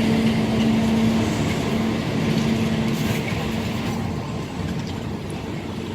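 A train running past and moving away: a steady engine hum and rolling rumble that fade gradually, the hum dying out about four seconds in.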